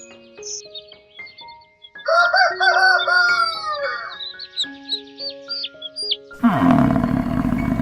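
A rooster crowing in a run of arching calls over light background music, with small bird chirps. Near the end a loud, rough animal roar breaks in.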